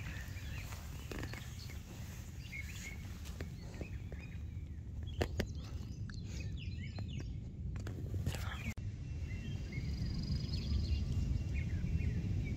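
Outdoor ambience: birds chirping now and then over a steady low rumble, with a couple of sharp clicks about five seconds in.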